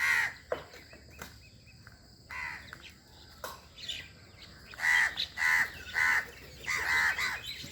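Crows cawing: a few scattered caws, then a quick series of four caws about five seconds in.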